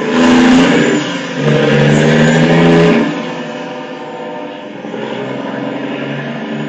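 Diesel locomotive air horn blowing two loud blasts, the second longer, then sounding on more softly.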